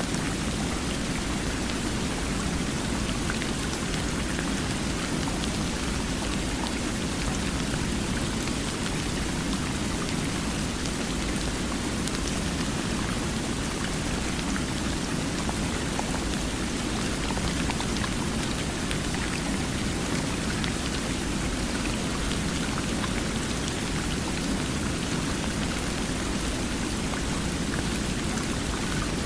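Steady, even sound of running water: a continuous rush with a fuller low band and faint scattered ticks of drops, unchanging throughout.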